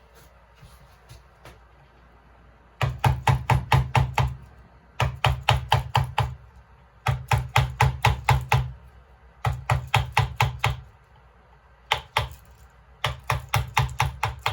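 A hammer driving a wood-carving chisel into wood in quick runs of light taps, about six a second, six runs separated by short pauses, starting about three seconds in.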